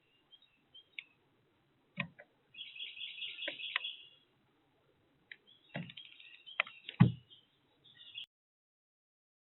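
Small birds at a feeder making quick, repeated high chirps, with several sharp knocks or thumps; the loudest thump comes about seven seconds in.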